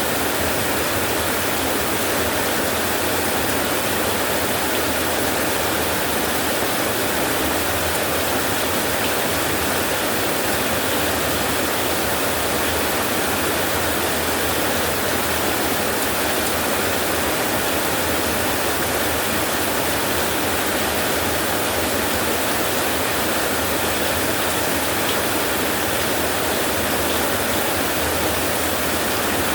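Steady rain, one even hiss that holds at the same level throughout, with no thunder and no single drops standing out.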